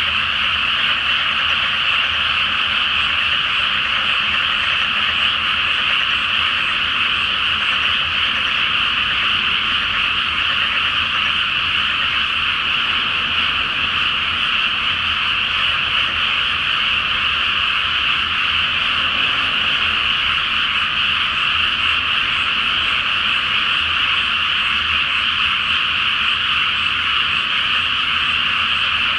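Dense chorus of many frogs croaking all at once from a flooded rice paddy, a steady unbroken din with no pauses.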